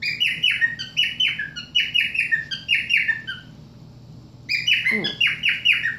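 Pet cockatiels calling in quick series of short, shrill, falling squawks, pausing for about a second past the middle before starting again.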